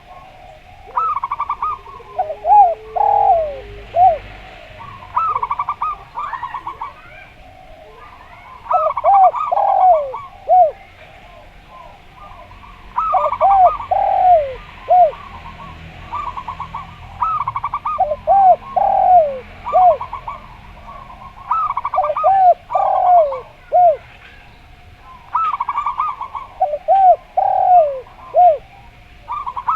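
Zebra dove (perkutut) singing the same cooing phrase about seven times, roughly every four seconds. Each phrase is a quick run of short stuttering notes followed by three or four longer, lower coos.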